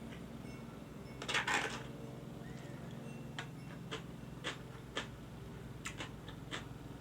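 Eating sounds from a katsu curry bento: a short noisy crunch or rustle about a second in, then a string of sharp, irregular clicks and taps, over a steady low hum.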